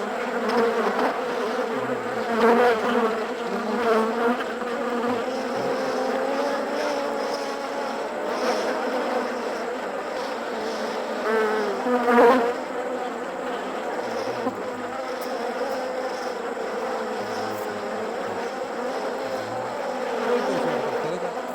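Honey bees buzzing continuously, many wings at once, the pitch wavering and sliding. The buzzing swells louder now and then, most sharply about twelve seconds in.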